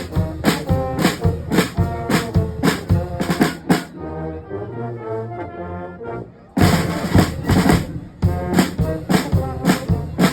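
Brass band music with drums keeping a steady beat. About four seconds in, the drums drop out for two to three seconds, leaving softer held brass notes, and then the full band comes back in.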